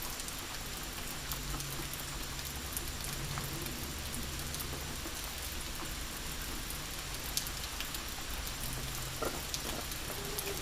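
Steady rainfall on forest foliage: an even hiss with scattered sharp drop ticks, and a faint low rumble that comes and goes underneath.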